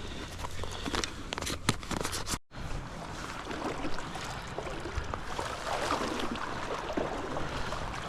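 Steady rush of flowing river water. There are a few sharp clicks in the first couple of seconds and a brief dropout to silence about two and a half seconds in.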